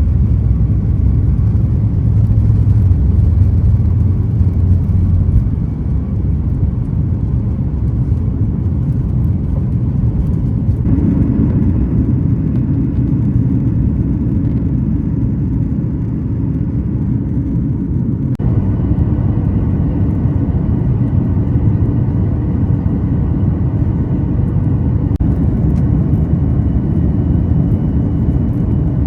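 Airliner cabin noise: a steady, loud rumble and whir of the jet engines and airflow heard from inside the passenger cabin. Its character shifts abruptly twice along the way.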